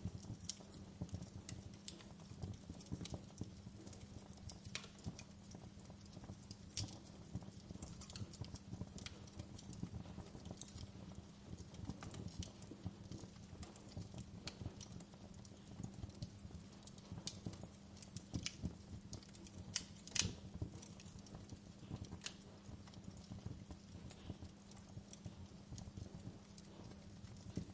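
Fire crackling: irregular pops and snaps, the loudest one about twenty seconds in, over a faint steady low hum.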